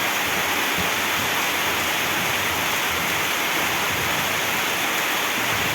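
Heavy rain pouring down, a loud, steady hiss of water with no let-up.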